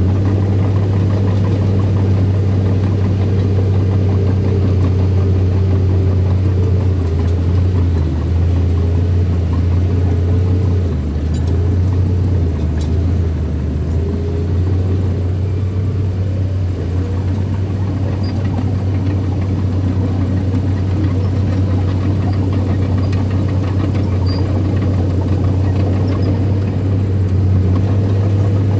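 Heavy diesel engine of an earthmoving machine running steadily. Its pitch sags lower for several seconds about a third of the way in, then recovers.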